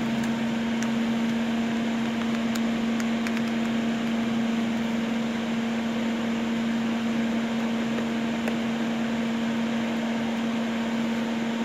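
Thermal Arc 400 GMS multiprocess welder switched on and idling: its cooling fan runs with a steady hum, with a few faint ticks.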